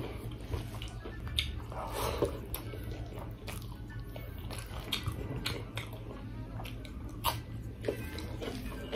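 Close-up chewing and mouth smacking while eating rice and chicken by hand, with scattered sharp wet clicks.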